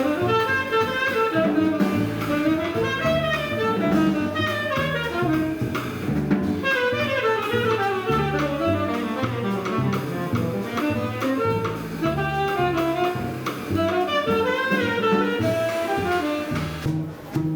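Small jazz group playing: a saxophone plays quick melodic runs over a stepping double bass line and a drum kit.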